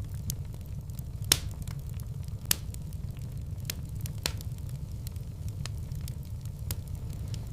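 Wood fire burning in a fireplace: a steady low rumble of flames with scattered sharp crackling pops, the two loudest a little over a second in and about two and a half seconds in.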